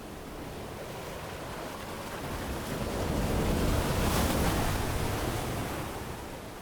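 Ocean surf on a beach: one wave swells, peaks a little past the middle with a rush of hiss, and washes back, fading near the end.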